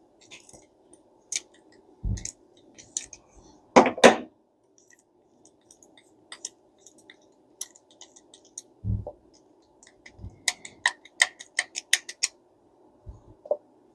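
Small metal parts of a vintage Ted Williams 540 push-button reel clicking, tapping and scraping as its handle is taken off by hand, with two louder knocks about four seconds in and a quick run of clicks near the end.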